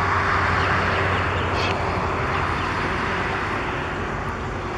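Steady rush of road traffic noise, loudest at the start and slowly fading, with a few faint short bird chirps over it.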